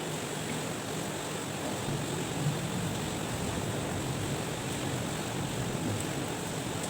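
Steady rushing background noise with no clear source, with one faint click about two and a half seconds in.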